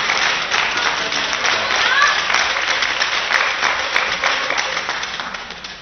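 Crowd applauding and cheering, with a brief shout about two seconds in; the applause dies away near the end.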